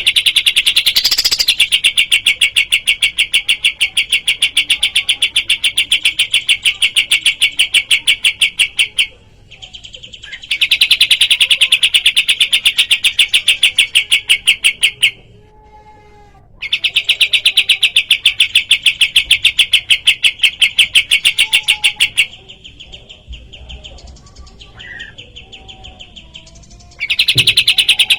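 Kapas tembak songbird calling in long, very fast, even rattling trills of several seconds each, broken by short pauses with softer scattered chirps.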